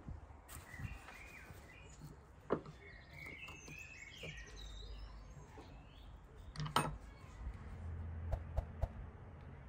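Small birds chirping over a low background rumble, with a few sharp knocks scattered through.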